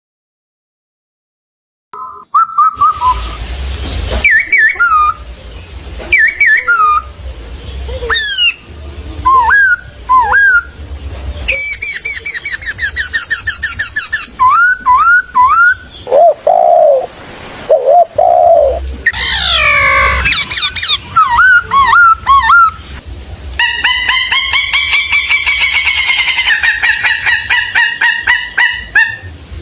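Several different birds calling and singing one after another, starting after about two seconds of silence: sweeping whistled notes, fast trills and rapid repeated chirps, with abrupt changes from one call type to the next.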